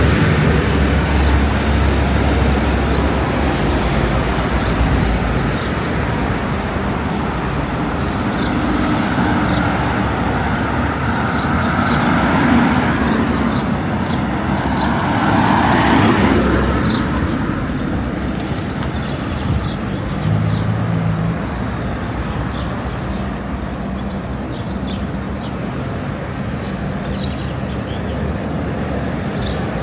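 Road traffic: a vehicle passes about halfway through over a steady rushing background.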